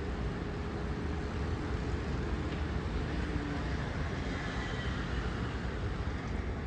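Steady city street noise, mostly a low traffic rumble with no distinct events.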